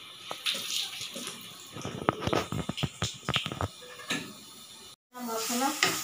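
Irregular crackling pops and clicks from onion and ginger-garlic masala frying in a lidded iron kadai over a low gas flame, thickest about two to three and a half seconds in.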